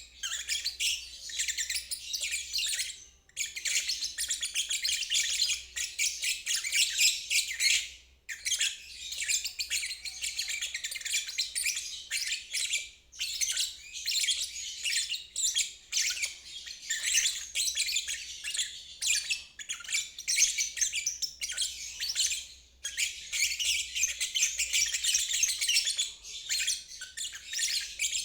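Lovebird singing its 'ngeriwik' song: long runs of rapid, high chattering trills, broken by short pauses every few seconds.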